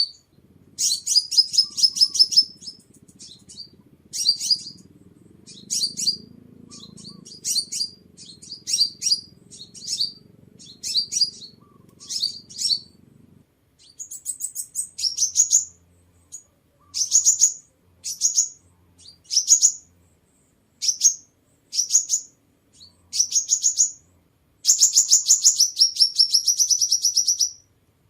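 Sunbird song: short bursts of very high, rapid twittering trills about once a second, with one longer trill near the end.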